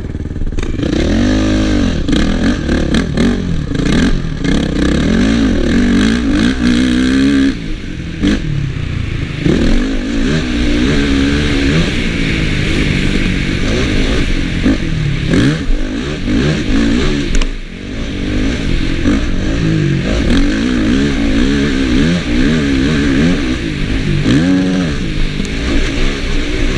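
Honda CRF450 motocross bike's single-cylinder four-stroke engine being ridden hard, its pitch rising and falling over and over with the throttle. It briefly drops off about 17 seconds in, then picks up again.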